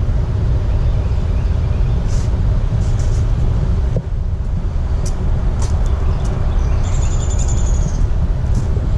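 Wind buffeting the microphone as a steady low rumble, with scattered light crunches of footsteps along the trail. A brief high trill sounds about seven seconds in.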